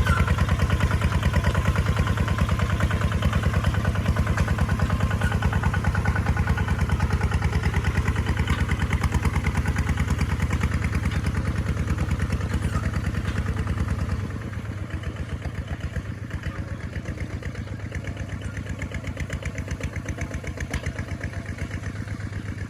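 Kubota tractor's diesel engine running with an even, rapid beat while plowing. About fourteen seconds in it drops to a quieter, lighter running.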